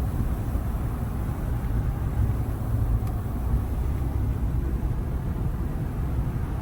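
Steady low rumble of engine and road noise inside a truck's cabin while driving.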